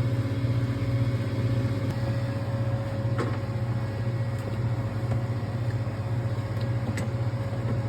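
Steady hum of an electric vacuum pump pulling a vacuum on the van's A/C system, with a few faint clicks of tools.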